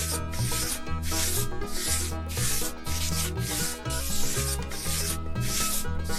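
Rhythmic rubbing or scraping strokes, about two a second, over background music with a bass line.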